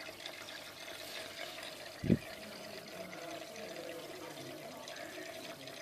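Water trickling and pouring in an aquarium, with a steady faint hum throughout. One short, low thump comes about two seconds in.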